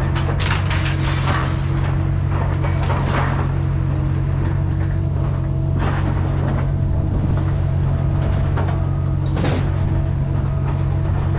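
A vehicle running steadily on the move, a constant low engine and road drone with scattered light rattles.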